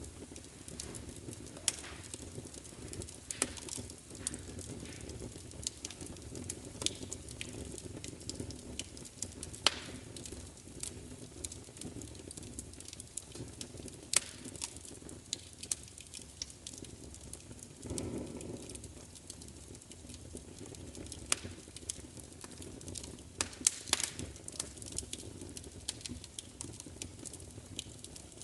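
Wood fire burning: a steady low rumble with scattered sharp crackles and pops throughout, and a brief louder whoosh of flame about two-thirds of the way in.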